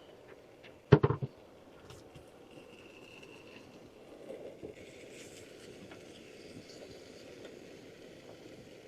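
Bacon sizzling faintly in a camp frying pan, with a short clatter of a utensil knocking against the pan about a second in.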